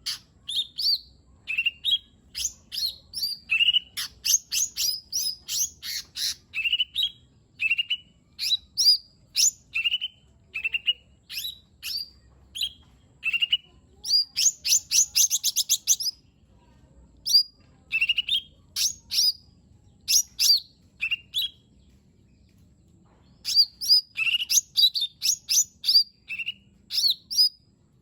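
Cucak ijo mini (a small green leafbird) singing a rapid, varied song of short rising whistles and sharp chirps, with a fast rattling trill about halfway through and a couple of short pauses.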